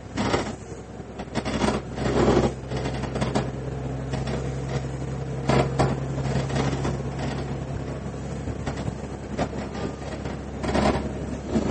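Interior running sound of a KiHa 110 series diesel railcar: a steady low engine drone under the wheel and rail noise, dropping out about eight seconds in, with the wheels knocking over rail joints now and then.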